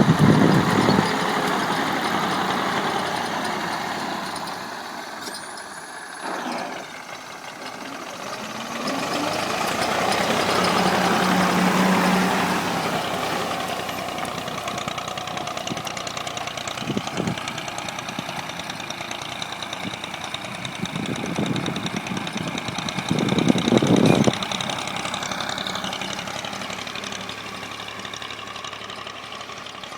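Old tractor's diesel engine running under load while it drags a box blade to level soil. It grows louder and fades again, swelling in the middle and peaking briefly near the end.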